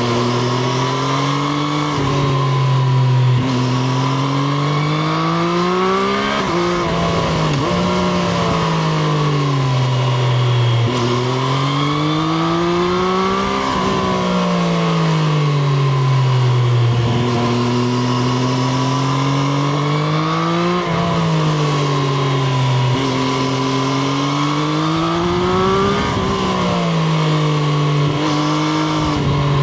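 Triumph Street Triple RS's 765 cc inline-three engine pulling hard through the gears, its pitch climbing and dropping sharply at each quick upshift. Three times it slows down through rough, crackly downshifts before accelerating again.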